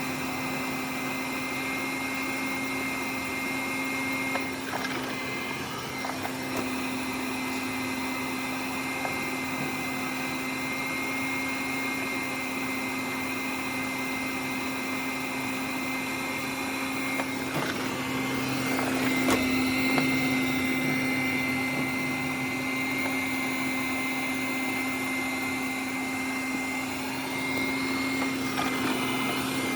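Robot vacuum cleaner running, a steady motor hum with a constant high-pitched whine. It grows somewhat louder for a few seconds just past the middle.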